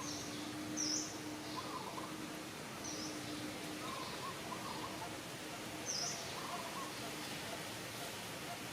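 Birds calling outdoors: short high chirps every couple of seconds over lower repeated call notes, with a faint on-and-off steady hum and a constant background hiss.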